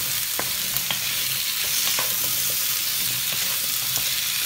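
Diced chayote frying in oil in a nonstick pot, a steady sizzle, with scattered light clicks and scrapes from a wooden spatula stirring the pieces.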